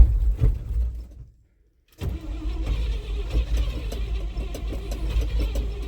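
1967 International 1200 pickup's engine being cranked in a cold start without catching and staying running. The sound drops out completely for about half a second a third of the way in, then the low, uneven cranking rumble carries on.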